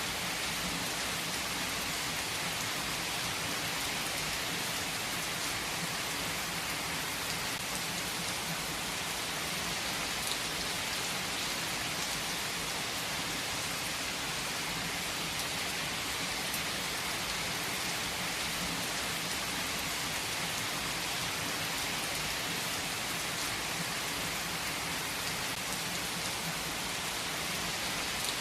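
Heavy rain falling steadily on hard surfaces, a dense even hiss with the odd louder drop.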